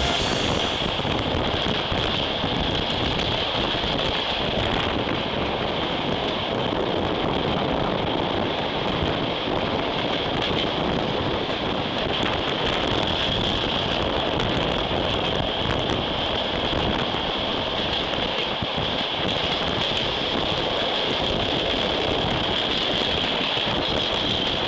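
Steady running noise of a moving train heard at an open carriage window: wheels on the rails and rushing wind, at a constant level throughout.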